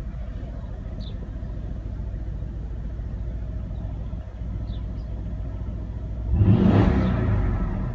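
Mercedes-AMG GLS 63's 5.5-litre twin-turbo V8 idling steadily, then revved once about six seconds in, the rev dying away near the end.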